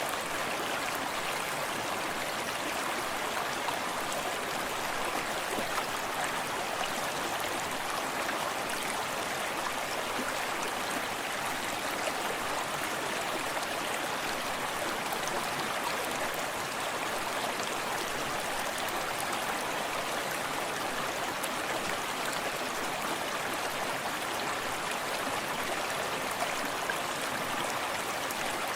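Forest stream flowing steadily, water splashing and gurgling over rocks in an even, continuous rush.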